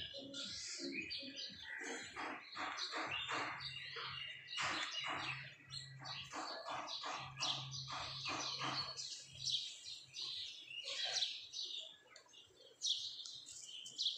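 Birds chirping busily, many short quick chirps overlapping one another. A faint low hum runs under them for several seconds in the middle.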